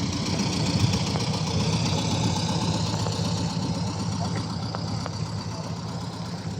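Small vintage tractor engine idling steadily with an even low, rumbling beat.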